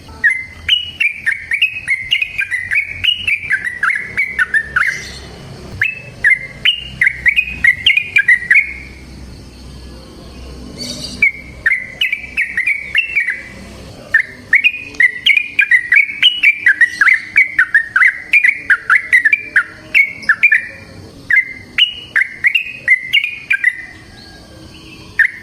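Yellow-vented bulbul (trucukan) singing its long rapid song: phrases of quick, bubbling whistled notes, each a few seconds long, repeated with short pauses between them.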